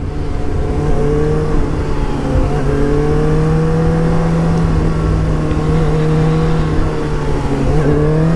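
The Suzuki GSX-S750's inline-four engine running under way at fairly steady revs, its pitch drifting only a little; near the end the revs dip briefly and then climb again.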